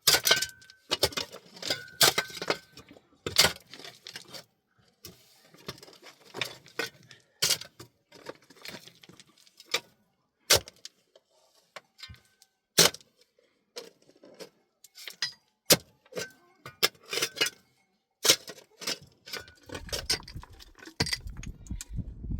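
Irregular sharp clinks and knocks, some ringing briefly, with a low rumble coming in near the end.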